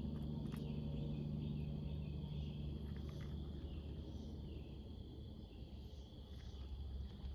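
Steady evening chorus of crickets, a continuous high trill, over a low steady rumble.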